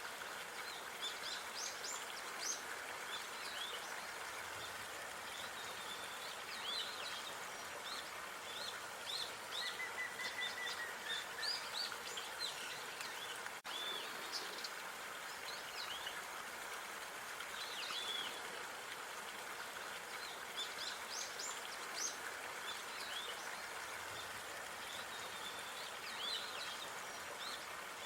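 Small birds chirping and calling again and again over a steady outdoor hiss, with a short trill about ten seconds in and a momentary dropout about halfway through.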